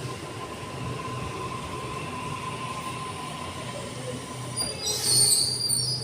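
Electric suburban train moving through the station: a steady low hum and a steady whine, then high-pitched wheel and brake squeals start about four and a half seconds in and are the loudest part.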